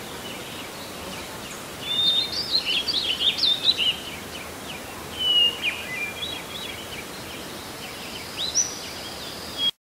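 Birds chirping and singing in quick, high-pitched phrases over a steady background hiss, with the busiest bursts about two seconds in and again around five and eight and a half seconds. The sound cuts off suddenly just before the end.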